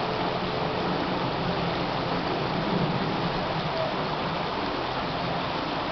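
Steady rush of a running creek.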